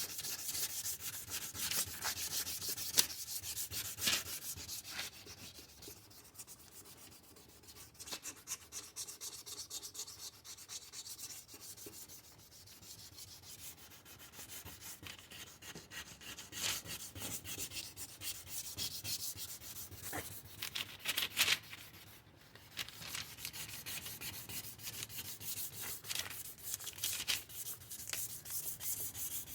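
Sandpaper being rubbed by hand over a plastic headlight lens in a long run of scratchy strokes. It goes quieter for several seconds in the middle, and there is a louder scrape about two thirds of the way through.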